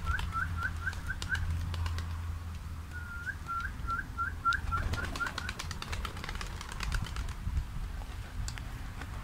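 A bird singing: a quick run of short, rising whistled notes, heard twice, with scattered sharp clicks underneath.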